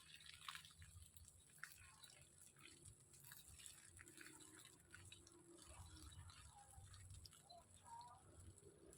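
Near silence with faint, scattered clicks and ticks throughout, drip-like.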